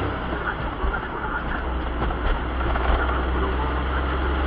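Inside the cabin of a manual 2000 Daihatsu Move on the move: engine and road drone with several sharp knocks and an uneven low shudder, the sign of an engine working loose on its mount after a mount bolt has fallen out.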